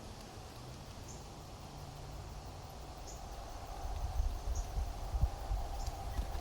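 Outdoor ambience with faint, short, high chirps about once a second. A low rumble grows louder from about four seconds in.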